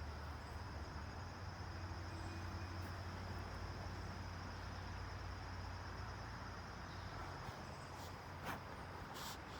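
Steady drone of insects, one high even tone, over a low rumble, with two sharp clicks near the end.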